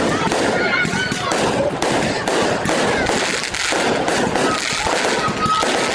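Fireworks display going off continuously: dense rapid crackling and bangs, with crowd voices under it.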